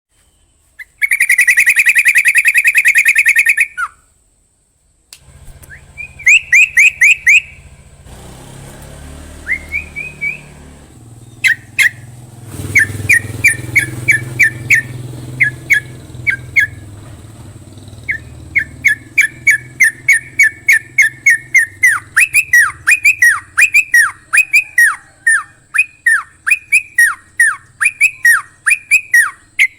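A songbird, the one called crocokan in Indonesian bird-keeping, singing loud, fast chirps and trills. A rapid buzzy trill comes about a second in, then clusters of quick chirps. From about two-thirds of the way through, a long fast series of sharp down-slurred notes follows.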